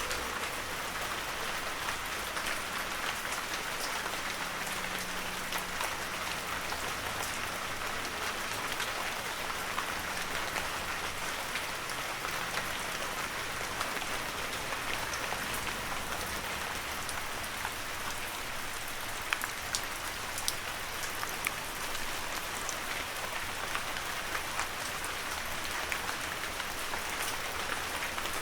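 Heavy rain falling steadily, a dense even patter with scattered sharper drop hits, a few louder ones just past the middle.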